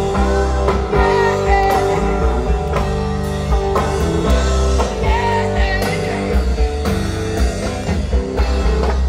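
Live rock band playing an instrumental passage, an electric guitar lead with bending notes over the full band.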